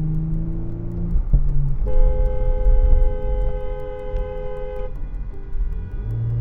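A car horn sounds continuously for about three seconds, starting about two seconds in, over the steady low rumble of a vehicle on the road.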